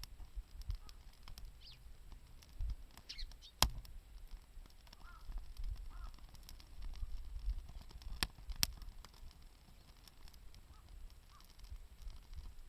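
Wood campfire crackling, with a few sharp pops, while crows caw a few times.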